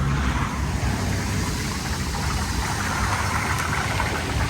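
Low steady rumble of a motor vehicle engine over the hiss of a deep fryer; the crackle of frying oil grows denser near the end.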